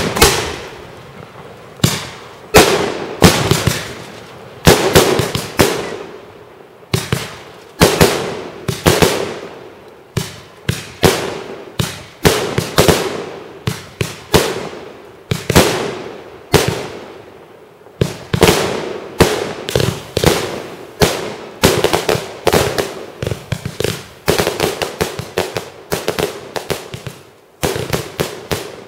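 Aerial fireworks display: shells bursting one after another in sharp bangs, each trailing off in a rolling echo, with quick clusters of several bursts close together in the second half.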